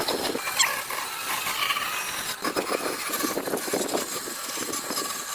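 Woodworking tool working on wood, with irregular rough scraping strokes over a steady thin hum.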